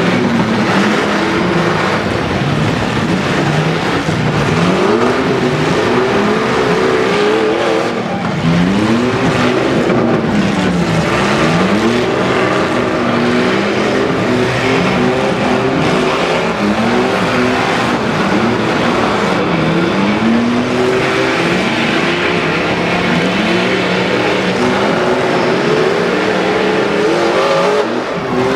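Several demolition derby trucks' engines revving up and dropping back over and over, their pitches overlapping and rising and falling every second or two over a steady din.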